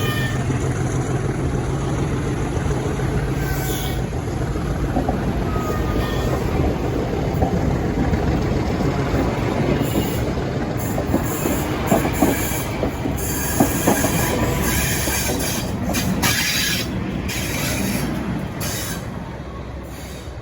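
Diesel train passing: engine running, wheels knocking over rail joints and squealing on the rails, then fading away near the end.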